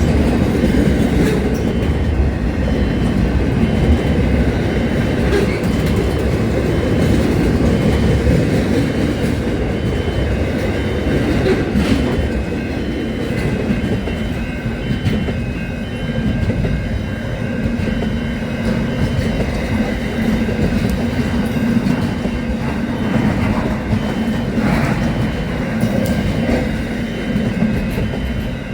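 Train running along the track: a loud, steady low rumble with occasional clicks from the wheels and rails.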